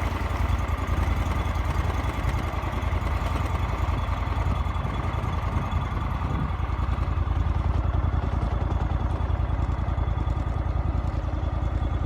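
Engine running steadily, a low, even rumble from the vehicle or boat carrying the camera.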